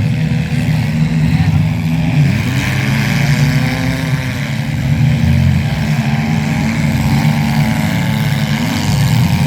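Several demolition derby cars' engines running at once, revving up and down with pitches that overlap, rise and fall over a steady low drone.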